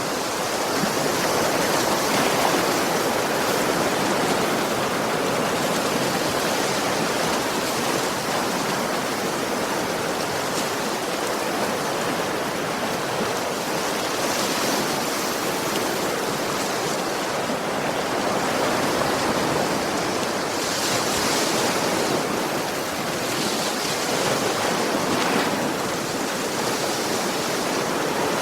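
Sea waves washing on a shore: a steady rushing surf that swells a little now and then.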